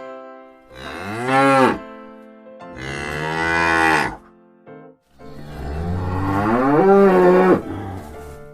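A cow mooing three times in long, drawn-out calls, the last the longest, over soft background music.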